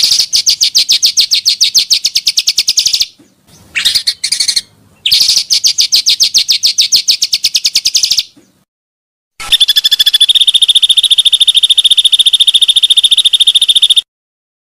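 Recorded song of the pancawarna bird, as played for bird-luring: a rapid trill of high repeated notes, about a dozen a second, in several bursts that start and stop abruptly. A steady high tone runs under the last and longest burst.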